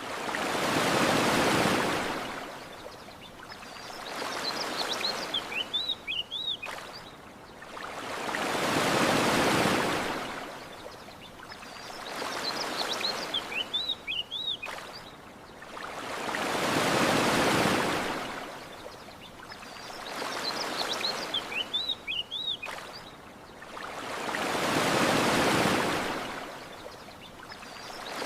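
Gentle ocean waves washing onto a beach, each swelling and fading about every four seconds, every other wave louder. Short bird chirps come in the lulls between waves.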